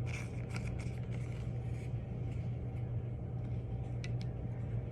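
A steady low hum, with a couple of faint clicks about four seconds in.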